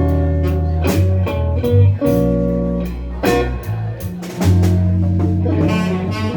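Live blues band playing an instrumental passage: electric guitar over bass and drum kit, with a steady beat.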